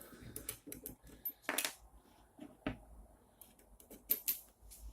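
Small hard clicks and light rattles of metal nuts and threaded rods being handled and fitted into an acrylic printer frame, with a few sharper knocks about a second and a half in, near the middle and about four seconds in.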